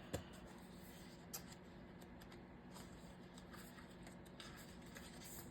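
Near silence with a few faint taps and rustles of paper stickers being handled on a craft table.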